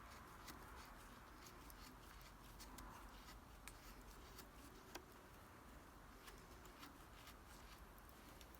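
Faint campfire crackling: scattered, irregular small pops and ticks over a soft hiss.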